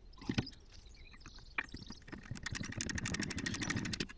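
Ratchet wrench clicking in a fast, even run as it tightens a brake caliper bolt, after a single knock about a third of a second in.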